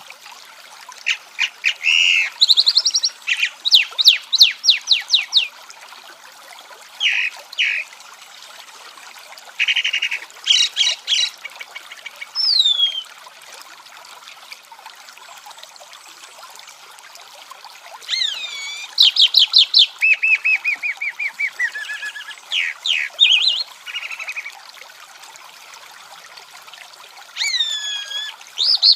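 Songbird singing in repeated phrases: quick runs of clear notes and downward-sliding whistles, each phrase lasting a few seconds with pauses of several seconds between them.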